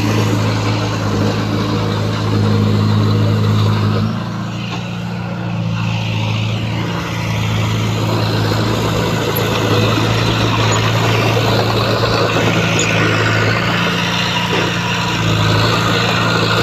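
Heavy diesel engine of an earthmoving machine running steadily under load. It eases off for a few seconds about four seconds in, then picks back up.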